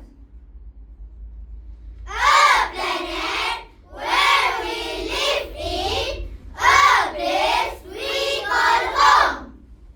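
A group of children chanting in unison, a choral-speaking team delivering a run of short, loud phrases with a sing-song rise and fall, starting about two seconds in after a brief quiet pause.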